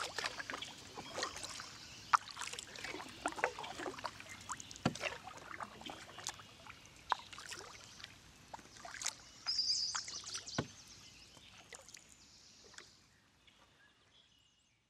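Kayak paddle strokes in water: irregular small splashes and drips, fading out near the end.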